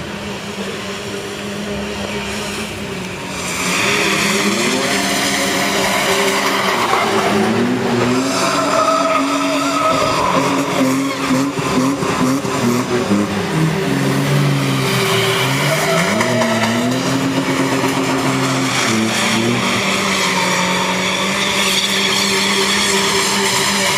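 Engines of SUVs and a pickup revving hard while drifting on a wet road, the pitch climbing and dropping again and again, over the sound of tyres skidding. It gets louder about four seconds in.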